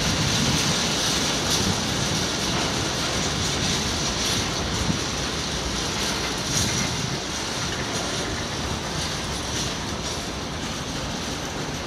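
Freight train's open box wagons rolling past, a steady rumble of wheels on rail with scattered clicks as wheels cross rail joints, easing slightly toward the end.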